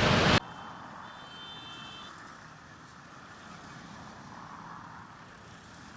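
Loud outdoor noise cuts off abruptly about half a second in, leaving a faint steady hum of distant road traffic. A brief high-pitched tone sounds for about a second and a half just after the cut.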